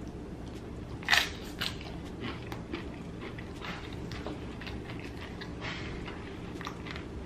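A person biting into and chewing crunchy loaded nachos: one loud crunch about a second in, then smaller crackling crunches while chewing.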